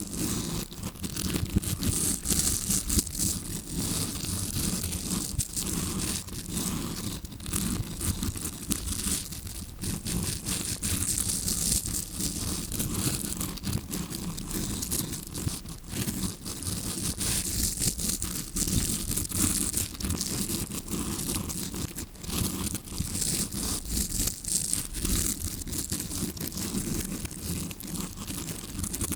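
Tawashi-style brush ear pick scratching and rubbing close against a recorder's microphone, imitating ear cleaning heard from inside the ear: a continuous, dense run of quick, irregular scratchy strokes.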